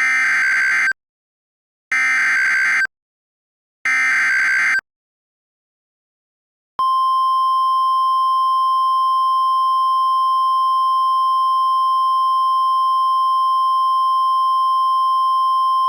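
NOAA Weather Radio emergency alert: three one-second bursts of digital SAME header data, two seconds apart, then after a pause the steady 1050 Hz warning alarm tone that signals a tornado warning broadcast.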